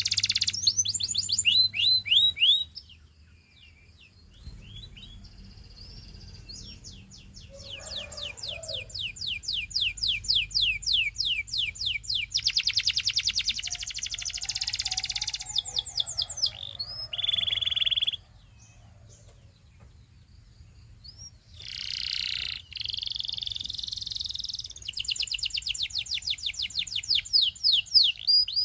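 Domestic canary singing: long rolling trills of fast repeated high notes, broken by two short pauses.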